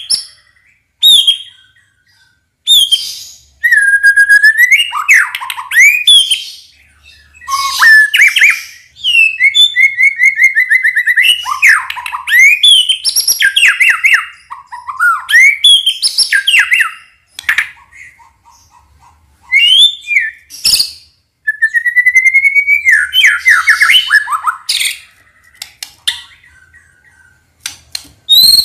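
White-rumped shama (murai batu) in full song. It gives a series of loud, varied whistled phrases with rising and falling sweeps and fast trills, separated by short pauses.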